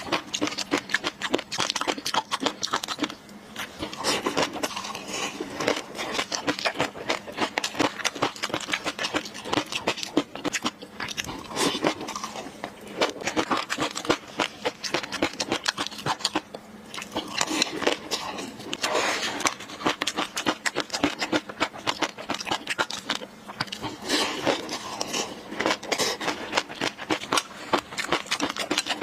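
Close-miked chewing and mouth sounds of someone eating fish roe sauce: a dense, uneven run of small wet clicks and smacks.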